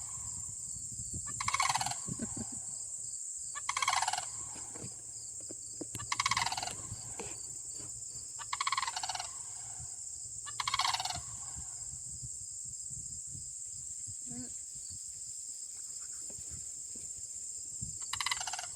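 A pair of sandhill cranes screaming at each other: loud rattling calls about every two seconds, six in a row, each dropping in pitch at its end, then a pause and one more call near the end.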